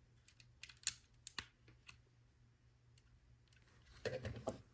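Small plastic Lego pieces clicking against each other as they are picked through by hand: a few sharp, separate clicks in the first two seconds, then a louder short clatter near the end.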